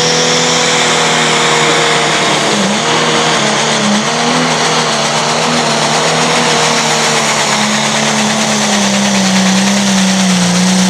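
A tractor-pulling machine's engine running loud and hard under load while pulling the weight sled. The pitch holds steady except for two brief dips about three and four seconds in.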